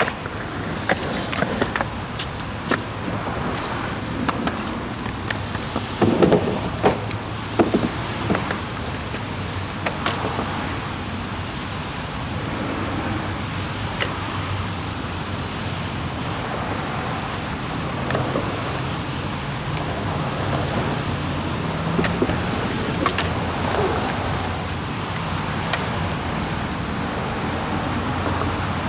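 Skateboard wheels rolling on wet pavement, with sharp clacks of the board against the ground or rail, the loudest group about six to eight seconds in.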